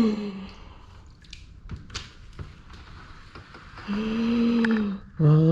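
A man groans a long, drawn-out 'oh' about four seconds in, after a stretch of faint background noise with a few soft clicks and knocks.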